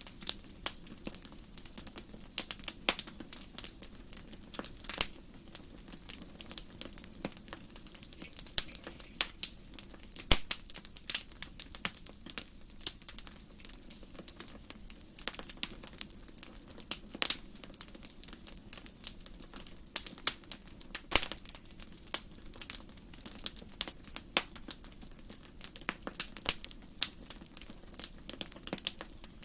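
Wood fire crackling in a fireplace: irregular sharp pops and snaps, several a second at times, over a faint steady low background.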